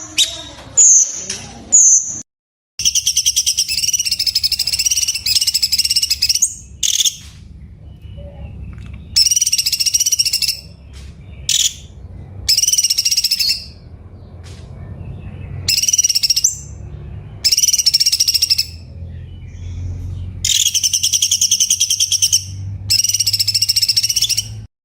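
Cucak cungkok songbird singing: a few short sharp calls, then a series of rapid, buzzy, high trilled phrases, each lasting up to about two seconds, repeated with short pauses between them.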